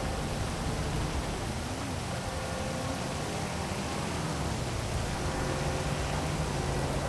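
Heavy rain as a steady, even hiss over a low city traffic hum, with a faint tone that rises and falls about two seconds in.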